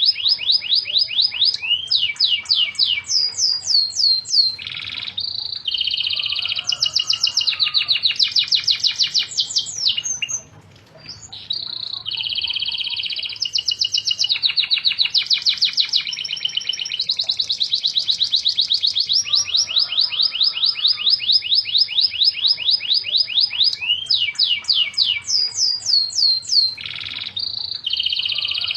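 Domestic canary singing vigorously in a long, continuous song of fast trills and rapidly repeated high notes, with one short pause about ten seconds in.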